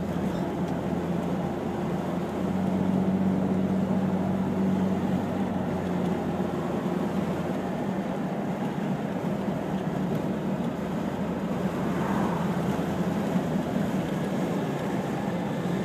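1994 Toyota Land Cruiser FZJ80's 4.5-litre inline-six through a Magnaflow exhaust with about 6,000 miles on it, starting to break in, heard from inside the cabin while cruising: a steady low exhaust drone over road and wind noise, a little louder a few seconds in.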